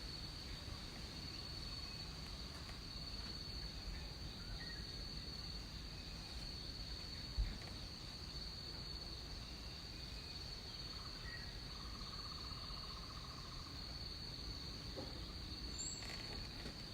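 Tropical jungle ambience: a steady high-pitched insect drone throughout, with a few short chirped calls and a buzzing trill of about two seconds past the middle. A single brief low thump about seven seconds in.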